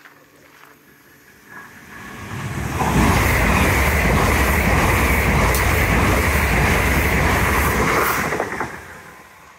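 Electric multiple-unit passenger train passing close by on the track. It builds up from about a second and a half in, runs loud for around five seconds with a rapid clatter of wheels over the rails, then dies away near the end.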